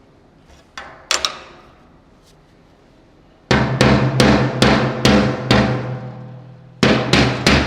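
Hammer blows on the thin aluminium fuel tank, each one ringing out like a drum. There are a few blows about a second in, then a quick run of about six, and more near the end.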